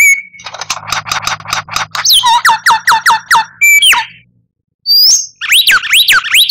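Songbird singing a fast, varied phrase: a rapid run of short notes, then a string of down-slurred whistles about four or five a second, a brief pause past the middle, then more quick slurred whistles.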